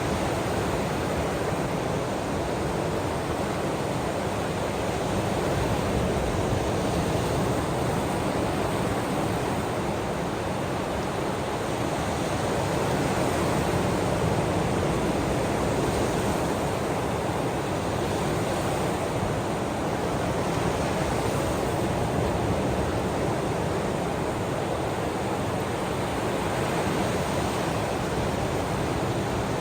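Ocean waves washing in a steady, continuous hiss of surf, swelling and easing slightly every several seconds.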